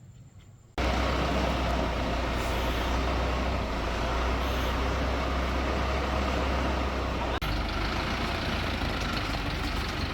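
A heavy diesel engine, most likely the crane's, running steadily with a deep rumble. It cuts in abruptly about a second in and drops out for a moment about seven seconds in.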